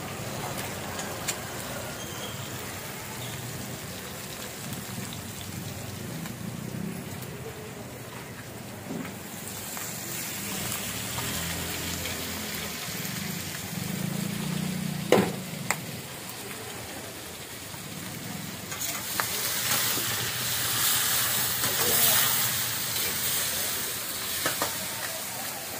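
Pieces of pre-boiled chicken sizzling as they fry in a steel wok over a flame. The sizzle swells louder in the second half, with a ladle stirring in the pan near the end. One sharp knock about halfway through is the loudest sound.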